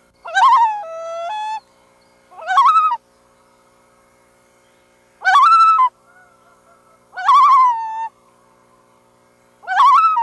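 Loons calling: five wavering, quavering calls in about ten seconds, each under a second long. The first and last trail off into a held, steady lower note.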